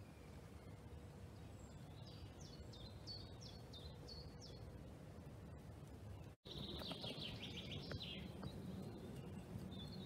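Small birds singing outdoors: a run of short high chirps, then after a brief dropout a fast trill, over a faint steady low rumble.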